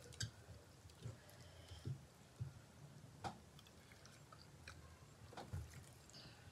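Faint chewing with soft, irregular mouth clicks and thumps as someone eats dhido and mutton curry, and fingers mix the soft food on a steel plate.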